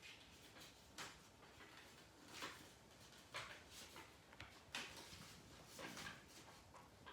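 Faint rustles and scrapes of a sheet of paper being folded to a center crease and pressed flat, in about six short bursts.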